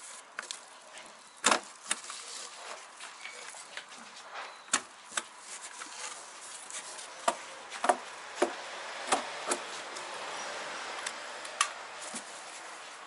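A hammer tacker striking staples into a wooden beehive, fixing insulation for winter: about ten sharp, separate knocks at irregular intervals, with quieter handling noises between them.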